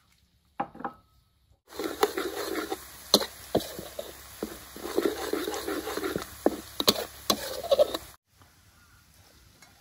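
Pounded dried chilli and garlic frying in oil in a steel wok, sizzling, with the metal spatula scraping and clicking against the wok as it is stirred. It starts about two seconds in and cuts off suddenly about a second before the end.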